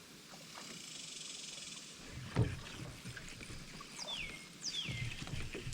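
A single hollow knock against a kayak about two seconds in, over low water noise. Near the end come two quick whistles, each falling in pitch.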